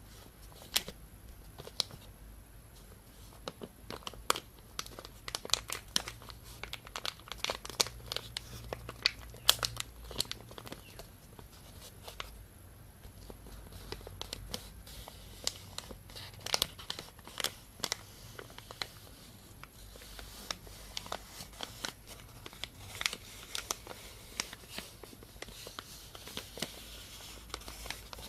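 Thin plastic bag being crinkled and rubbed close to the microphone: a dense, irregular stream of sharp crackles, over a faint steady low hum.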